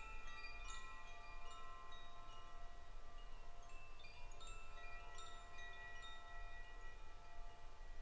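Wind chimes ringing: scattered strikes at several pitches, each tone ringing on and overlapping the next.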